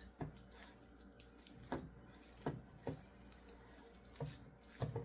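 Raw ground chicken meatloaf mixture with egg and breadcrumbs squelching as it is mixed by hand: about six short, wet squishes.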